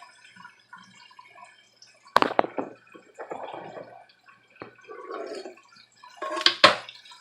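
Meat sauce being spooned into a lasagna pan: sharp clinks of a spoon against the pot or pan, with soft wet plops of sauce in between.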